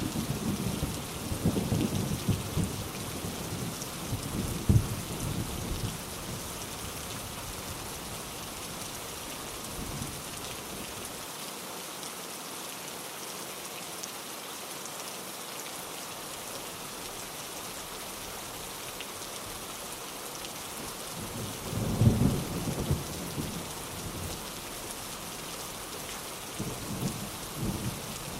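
Steady rain with thunder rolling: a low rumble fading away over the first few seconds, another swelling about 22 seconds in, and a short one near the end.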